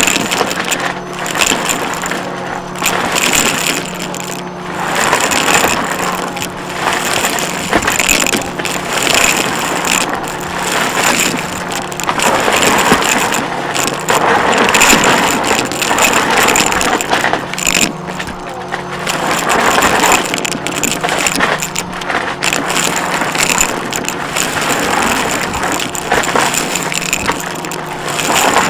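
Upright vacuum cleaner running with a steady motor hum and high whine, pushed rapidly back and forth over the floor so that the suction noise swells and fades about every one to two seconds.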